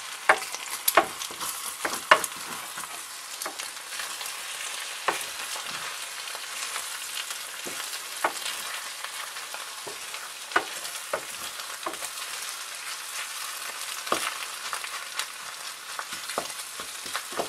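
Eggs and bacon sizzling in a frying pan while a wooden spatula stirs and mixes them, its edge knocking against the pan every second or so.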